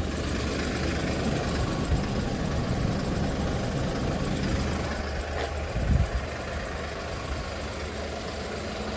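Hyundai Porter II refrigerated truck idling, its diesel engine and refrigeration unit running as a steady low hum. A brief thump about six seconds in.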